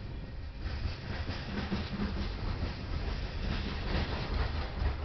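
Freight cars of a coal train rolling past close by: a steady rumble of steel wheels on the rails with rapid clicking and clatter, growing louder a little way in.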